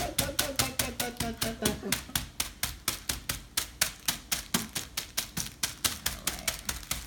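Butterfinger candy bars being beaten into fine crumbs: a fast, steady run of sharp strikes, about five a second.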